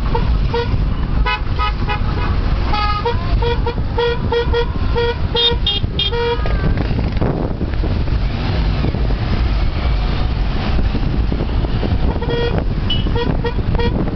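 Vehicle horns tooting in many quick short beeps, some at different pitches, over a constant heavy rumble of road traffic and wind. The beeping stops about six seconds in and starts again near the end.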